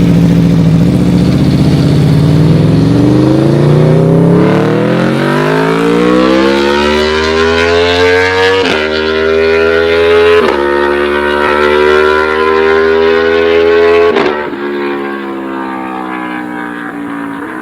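Aprilia RSV4's V4 engine through a full SC Project titanium race exhaust, loud, climbing steadily in pitch for several seconds and holding high revs with two brief dips. About fourteen seconds in the throttle closes and the note drops to a lower, quieter run.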